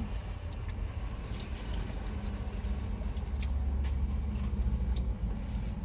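Low vehicle rumble heard from inside a car, swelling about three seconds in and easing near the end, with a few small clicks over it.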